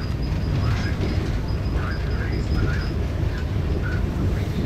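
Steady low running rumble inside a moving Shatabdi Express LHB AC chair car coach, with faint passenger chatter in the background.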